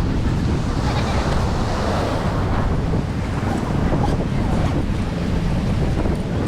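Wind buffeting the microphone: a steady, low rushing noise without breaks.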